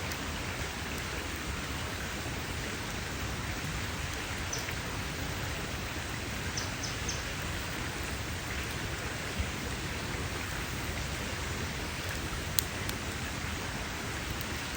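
Wood campfire crackling: a steady hiss of burning with scattered sharp pops, the loudest about nine and twelve and a half seconds in.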